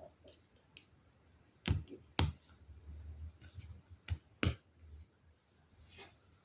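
Hard plastic LEGO Technic pieces being handled and snapped together: four sharp clicks, two about a second and a half in and two more near the middle, among soft rustling of parts.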